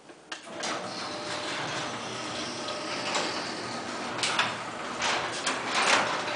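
Electric garage door opener running and a sectional garage door travelling along its track, with a series of clunks and rattles in the second half. The door has a fault: it binds on its last panel.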